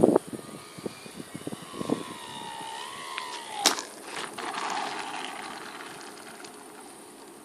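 Motor and propeller of a home-built radio-controlled Mustang model plane whining in flight, the pitch sliding down and then rising again. There are knocks near the start and a sharp crack about three and a half seconds in, after which the whine fades into hiss.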